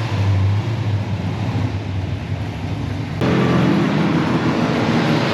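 Car engines running, with an abrupt change about three seconds in from a deep, low engine note to a different, higher-pitched one.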